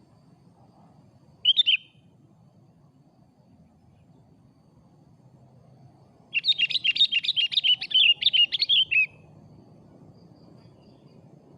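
Sooty-headed bulbul (kutilang) calling: one short call about a second and a half in, then a rapid string of notes lasting nearly three seconds past the middle.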